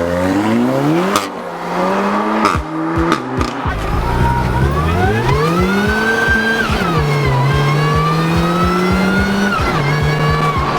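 Car engine revving, rising and falling in pitch several times, with a climb from low revs about four seconds in that then holds.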